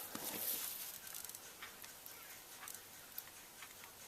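Light handling of small RC buggy suspension parts and tools: faint, scattered clicks and taps.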